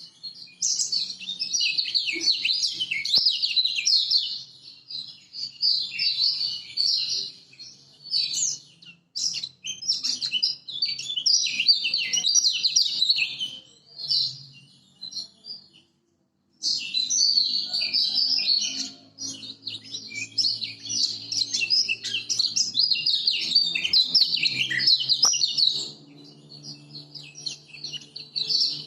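Kecial kuning, a Lombok white-eye, singing a fast, continuous twittering song in long phrases, with a gap of about a second near the middle.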